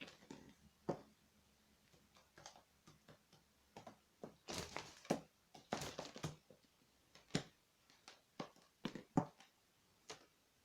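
A pet magpie's beak pecking and tapping at a spider on a hard surface: irregular sharp knocks and scuffs, with a busier flurry in the middle.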